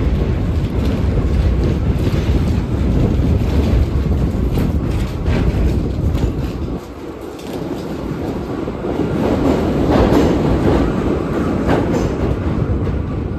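New York City subway train running on the rails: a steady low rumble with scattered wheel clicks over the rail joints, swelling louder about ten seconds in.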